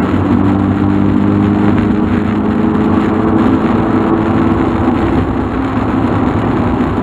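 Mark II Volkswagen Golf driving along at a steady pace, its engine running evenly under a haze of road noise.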